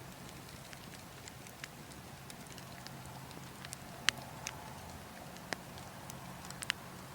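Burning logs crackling, with irregular sharp pops scattered through, the loudest about four seconds in and near the end, over a steady low rush of wind.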